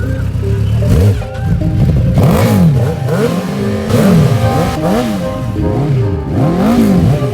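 Motorcycle engine revved over and over, its pitch rising and falling about once a second, with background music.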